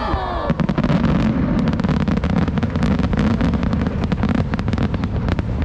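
Aerial fireworks bursting overhead: a dense, rapid run of crackling pops over a low rumble, starting about half a second in.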